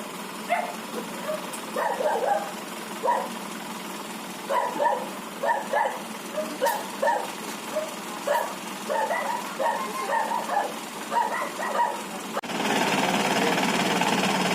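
A dog barking over and over in short, irregular barks over a steady background hum. Near the end the sound cuts suddenly to a louder steady noise.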